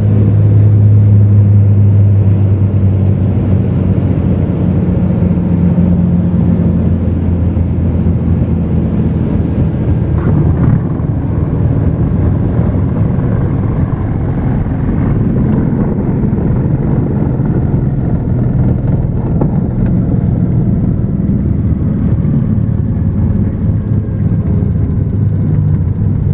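Cessna 210's engine and propeller running steadily in flight, a loud constant drone with a low hum.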